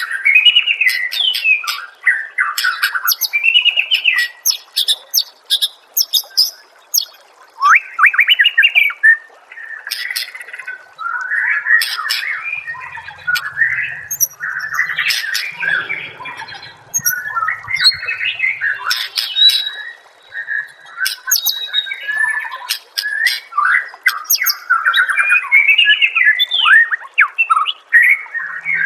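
Songbird song: a dense, unbroken run of quick chirps, squawky notes, warbled phrases and sharp clicking calls, the kind of varied, rapid song recorded as a masteran for training white-rumped shamas and other cage songbirds.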